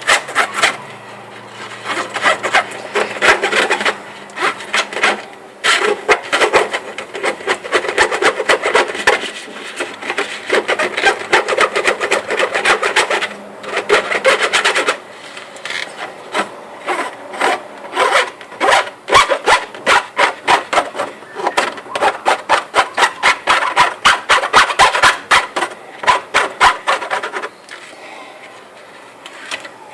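A utensil scraping around the inside of a container, stirring a coloured slime mixture in rapid repeated strokes, with short pauses between runs of stirring.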